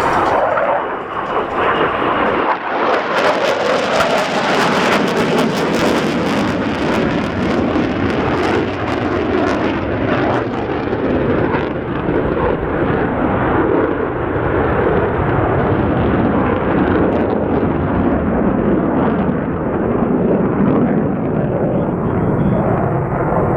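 EA-18G Growler's twin turbofan jet engines, loud and continuous, with a harsh crackle through the first half. In the second half the sound grows duller, the hiss thinning out.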